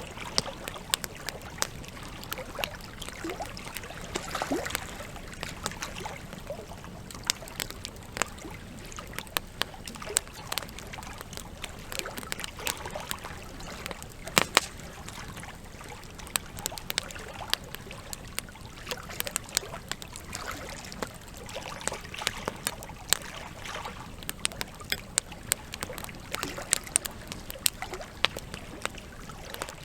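Campfire logs burning with continual crackling: irregular sharp pops and snaps over a steady low hiss, with one louder pop about halfway through.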